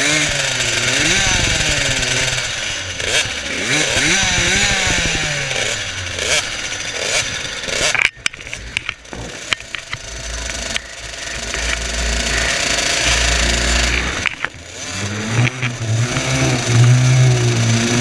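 Small 50cc two-stroke motocross bikes revving hard, several engines at once, their pitch rising and falling as they accelerate and back off. There is a sudden break about eight seconds in, then the engines build again, with one revving high near the end.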